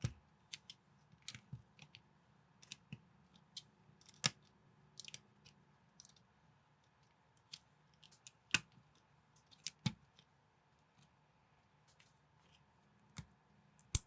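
Plastic building bricks being handled and snapped together: scattered sharp clicks at irregular intervals, a few louder snaps among fainter ticks.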